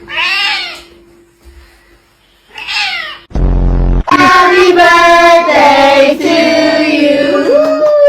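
A cat meows twice, two short calls that rise and fall in pitch with a pause between. Then, about four seconds in, a loud sustained tune with stepping pitch starts, singing or music.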